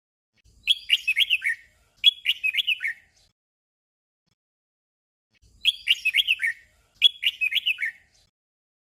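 Red-whiskered bulbul singing its short 'double' song: a brief warbled phrase given twice in quick succession, then after a pause the same doubled phrase again.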